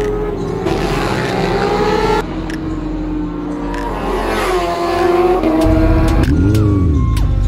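Race motorcycle engines on track, their pitch sliding up and down as they pass. Near the end a motorcycle engine revs up and back down once. Music is mixed in under the engines.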